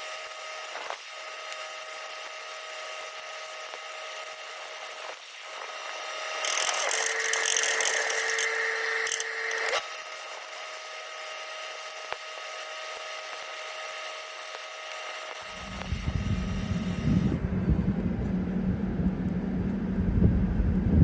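A power tool runs with a steady whine and hiss, louder and harsher for about three seconds near the middle. A low rumble takes over from about fifteen seconds in.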